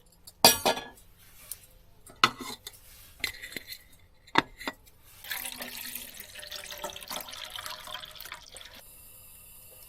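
A few sharp clinks and knocks of glassware and dishes, then water running into a small portable sink for about three and a half seconds before it stops.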